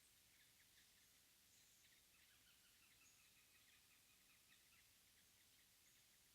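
Faint early-morning mountain forest ambience with distant small birds calling in short, quick repeated notes, busiest in the middle. These are not Mugimaki Flycatchers.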